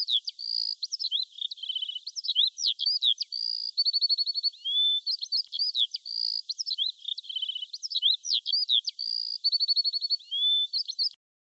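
Songbird singing a fast run of high chirps, whistles and rapid trills, cutting off abruptly near the end.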